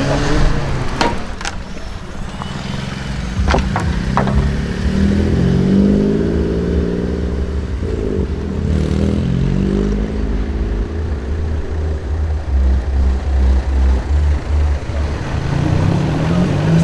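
Modified cars' engines revving and pulling away, the engine pitch rising and falling several times, with a few sharp bangs in the first four seconds. Later the engine note turns choppy and pulsing.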